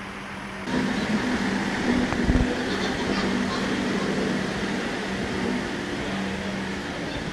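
NS DM'90 diesel railcar rolling slowly alongside a station platform, its engine running with a steady hum. The sound gets louder about a second in, and there is a low thump about two seconds in.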